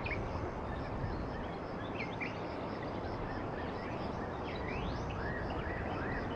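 Small birds chirping in short repeated rising notes over a steady wash of outdoor background noise.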